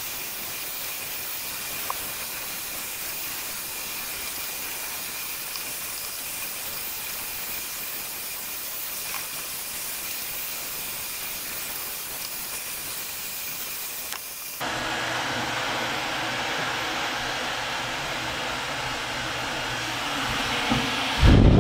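Dyson Supersonic hair dryer blowing: a steady rush of air with a faint high whine. About fifteen seconds in, the sound turns abruptly louder and fuller. A thump comes at the very end.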